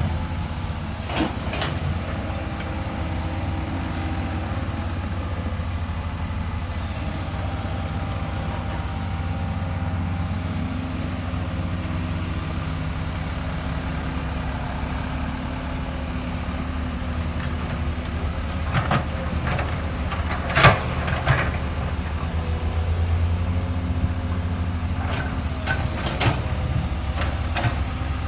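Excavator's diesel engine running steadily with a low drone, broken by scattered clanks and knocks, the loudest about twenty seconds in.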